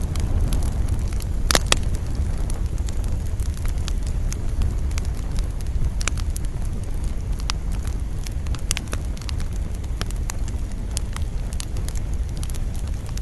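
Wood campfire crackling, with sharp pops scattered irregularly over a steady low rumble of wind. One louder pop comes about a second and a half in.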